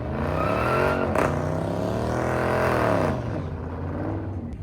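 A car engine revving, its pitch swinging up and down over about three seconds, then easing off.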